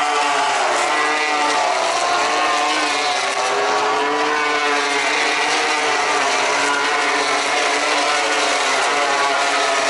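Several MotoGP racing motorcycles passing at high revs, their engine notes overlapping and rising and falling as the riders shift gears and brake through the corners.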